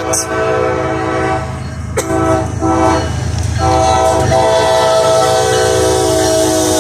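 Locomotive horn sounding in several blasts, the last held for about three seconds, over the low rumble of the passing train.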